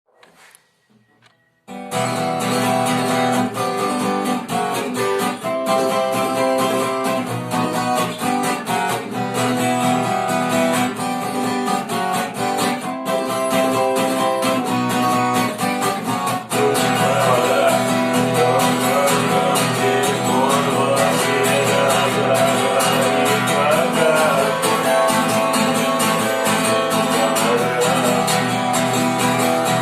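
Guitar music starting about two seconds in, after a brief quiet stretch with a few faint clicks.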